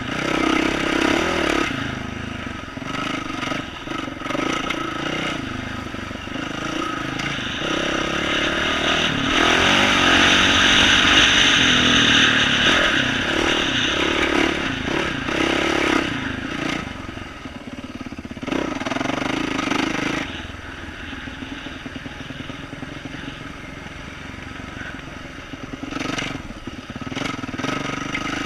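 2012 Yamaha YZ450F dirt bike's single-cylinder four-stroke engine with aftermarket exhaust, revving up and down as it is ridden over a rooty trail. It is loudest about ten seconds in, then eases to low revs for several seconds before picking up again.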